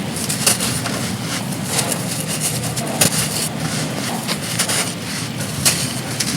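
Chunks of pure sand crumbling and crunching in irregular sharp cracks, over a steady rush of heavy wind and rain.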